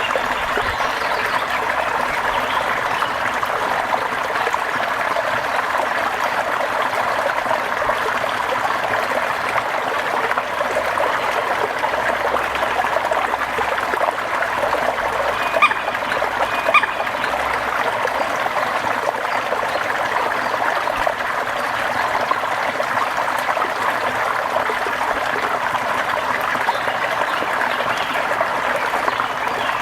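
Steady rain falling, an even hiss of water with no let-up. Two brief ticks about a second apart near the middle.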